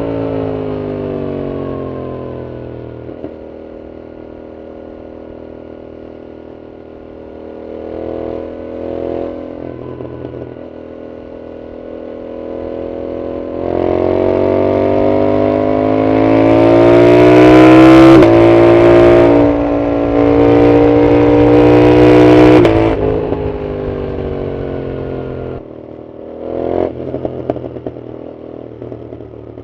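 A 2025 Yamaha MT-07's 689 cc parallel-twin engine, through an Arrow full exhaust, winds down for several seconds, then accelerates hard. A gear change breaks the climb about two thirds of the way through. The throttle closes near the end, followed by crackles and pops from the exhaust on the overrun.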